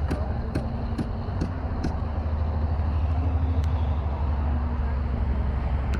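Footsteps at a walking pace, about two a second, stop about two seconds in, with one more step later. Under them runs a steady low rumble.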